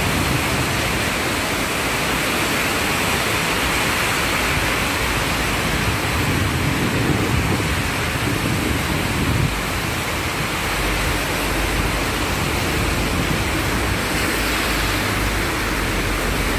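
Heavy rain falling, a steady even hiss, with a low rumble joining about ten seconds in.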